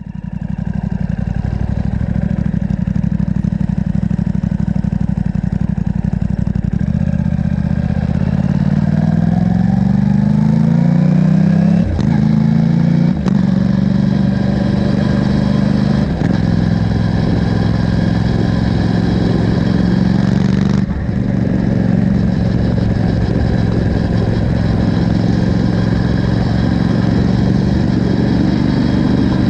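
Aprilia RS660 parallel-twin engine running stationary through a Mivv Delta Race exhaust with no catalytic converter and the dB killer fitted. It holds a steady idle, its note climbs gradually from about seven to twelve seconds in, then holds steady again. A few brief clicks come through.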